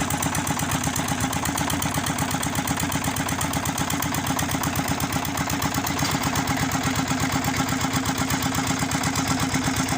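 An engine idling steadily with an even, rapid chug.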